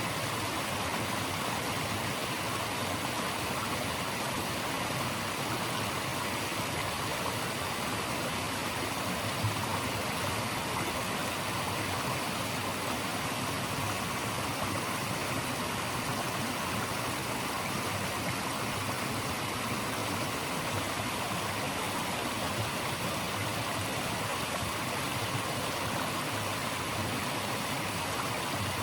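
Running water of a stream, rushing steadily as an even hiss with no change.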